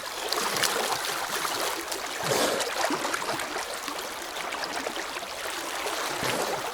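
River water running steadily, with a few faint splashes.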